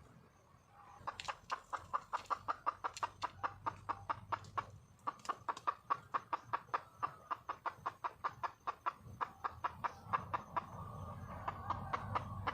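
Red junglefowl hen calling for a mate: a fast run of short clucks, about five a second, starting about a second in, with a brief break around the middle.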